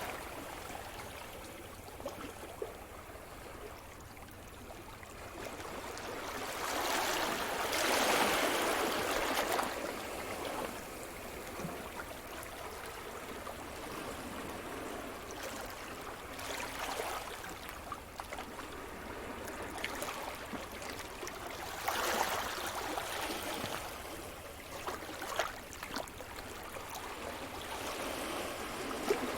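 Sea surf: waves breaking and washing on the shore, the rush of water swelling and falling back every several seconds, loudest about eight seconds in.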